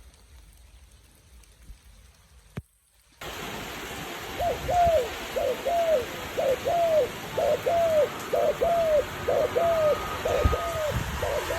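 A bird calling over and over: short arched notes, mostly in pairs, about two a second, over a steady hiss of background noise. Before the calls start there is a quiet stretch with a single click, and then the background sound comes in suddenly.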